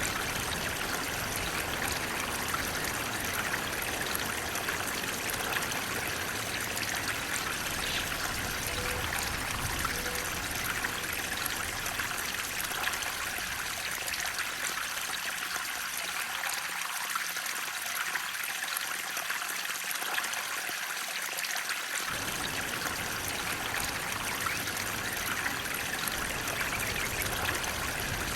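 Steady rushing and trickling of flowing water, a stream or small waterfall. The deep part of the sound thins out for several seconds past the middle, then comes back suddenly.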